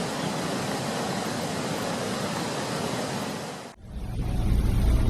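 Steady rushing noise of wind and rough sea. About three and a half seconds in it cuts off abruptly and gives way to a loud, deep rumble that swells toward the end.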